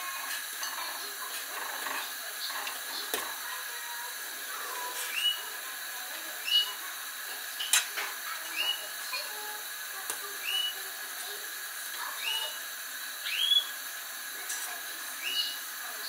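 A bird chirping, short high chirps that rise and then level off, repeating about once a second over a steady background hum. A sharp click about eight seconds in.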